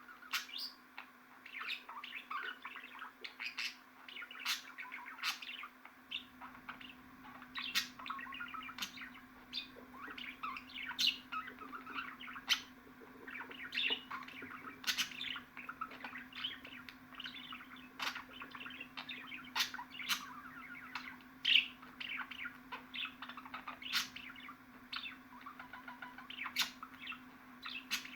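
Budgerigar chatter: continuous warbling mixed with many sharp chirps, over a steady low hum.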